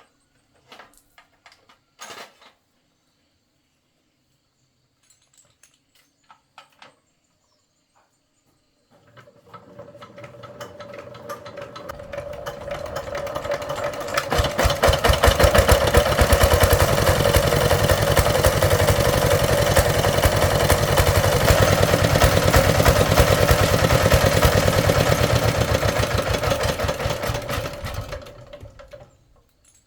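A few scattered clicks, then an engine running with a fast, even firing beat at a steady speed. It builds up from about nine seconds in, holds loud, and fades away near the end.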